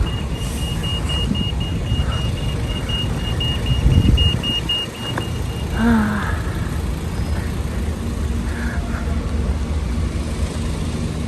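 Pedestrian crossing signal beeping rapidly and evenly over a low rumble of street traffic. The beeping stops about halfway through.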